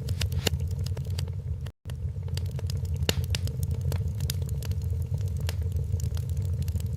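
Wood fire crackling, with irregular sharp pops and snaps over a steady low roar of flames. The sound cuts out for a split second about two seconds in.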